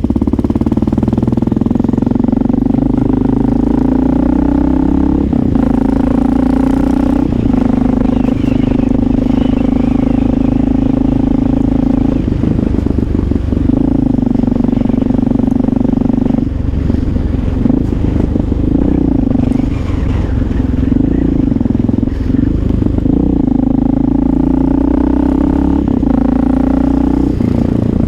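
Honda XR650L's single-cylinder four-stroke engine running while the motorcycle is ridden. A steady engine note breaks off and picks up again several times as the rider shifts and rolls the throttle, and wavers up and down for a few seconds past the middle.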